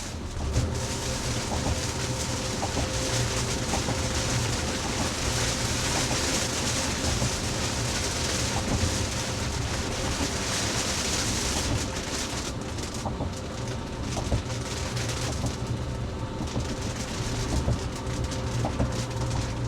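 Heavy rain pelting a Tesla's roof and windshield, heard from inside the cabin over the low rumble of tyres on a wet road. The rain noise eases a little about two-thirds of the way through.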